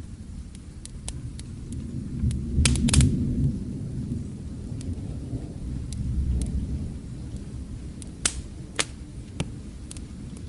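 Wood fire crackling with scattered sharp pops over a low rumble of distant thunder, which swells about two to three seconds in and again around six seconds. A faint hiss of rain lies underneath.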